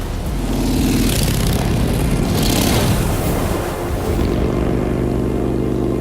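Harley-Davidson motorcycle engines running and passing by, with two rushing swells of noise about one and two-and-a-half seconds in, then a steady engine note from about four seconds in.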